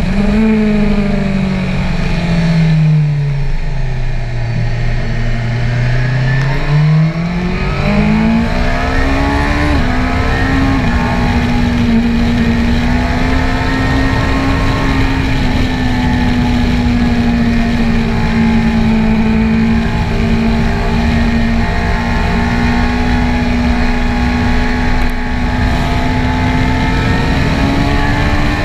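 BMW S1000R's inline-four engine at track speed, heard from onboard. Its note drops over the first few seconds as the bike slows, holds low for a few seconds, climbs again from about seven seconds in, then runs steady and high with a slight rise near the end, with wind rush over the microphone throughout.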